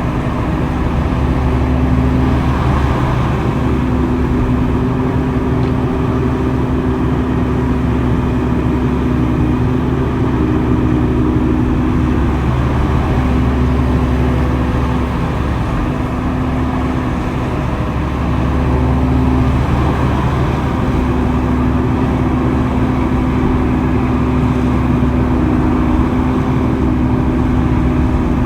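Heavy diesel earthmoving machinery running steadily at a construction site, a continuous engine drone with slight rises and falls in load.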